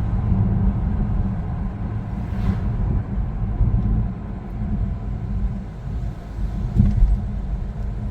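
Car driving on a road: a steady low rumble of road and engine noise, with a brief louder bump near the end.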